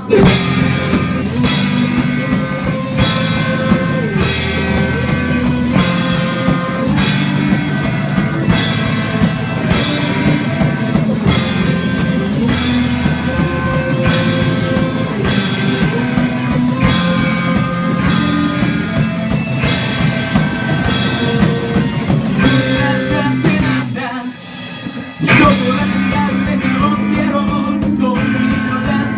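Live rock band playing with drum kit and electric guitar, driving on a steady beat. The band drops back briefly a little after twenty-four seconds in, then comes back in at full volume.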